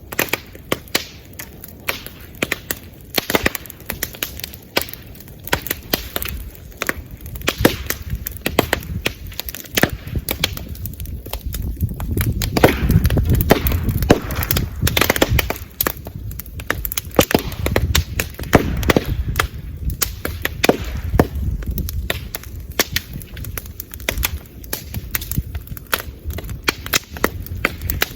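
Bamboo bonfire crackling with frequent sharp pops and snaps, some as loud as small firecrackers, as the burning bamboo bursts. A low rumble swells in the middle and eases off again.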